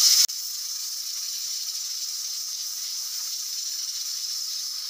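Onions, tomatoes and whole spices frying in ghee in a wok, giving a steady high sizzle. It drops abruptly to a quieter level about a quarter of a second in.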